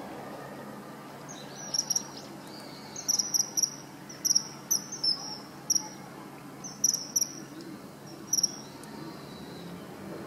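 Common kingfisher calling: short, shrill, high-pitched notes, singly and in quick runs of two or three, over a steady low background noise.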